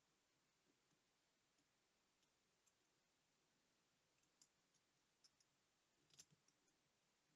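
Near silence with faint, scattered small clicks, a cluster of them about six seconds in: small watch parts and hand tools being handled and set down.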